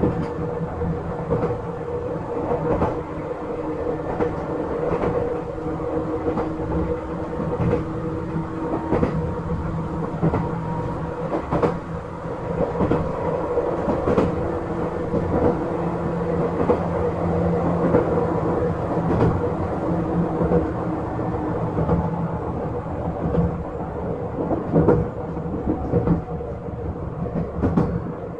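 Izukyu 8000 series electric train running at speed, heard on board: a steady motor and gear hum over wheel and rail noise, with frequent clicks as the wheels pass over rail joints.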